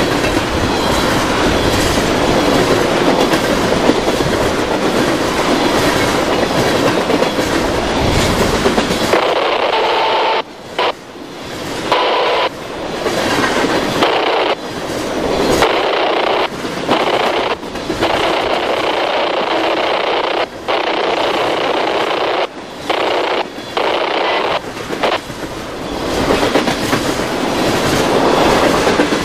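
Freight train cars rolling past close by: a steady, loud rumble of steel wheels on the rails with clatter over the joints. From about ten seconds in, the low rumble falls away and the sound drops out briefly again and again.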